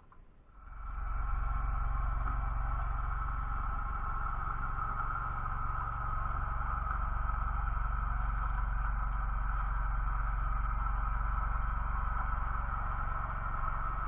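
A motor-driven machine starts up about half a second in, reaches full level within a second, and then runs with a steady droning hum.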